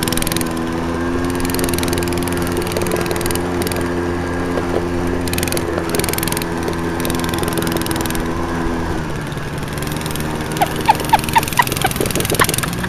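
Small off-road vehicle engine running steadily, with its pitch shifting slightly a few seconds in and dropping about nine seconds in. A few short high chirps sound near the end.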